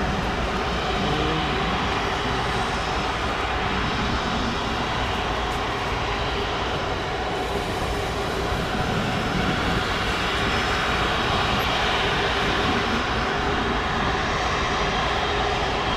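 Airbus A330 airliner's jet engines running, a steady, even rushing noise with a faint constant hum.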